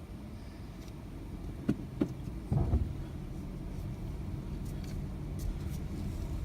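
Toyota RAV4 Hybrid under braking, heard as a low drive rumble with a few short knocks about two seconds in, then a louder knock followed by a low, steady hum: the braking noise the owner is recording.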